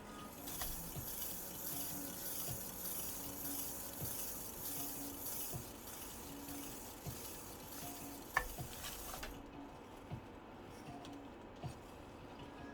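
Hairdryer blowing steadily on the wet acrylic pour, a hiss that switches on about half a second in and cuts off sharply after about nine seconds. A single sharp click comes shortly before it stops.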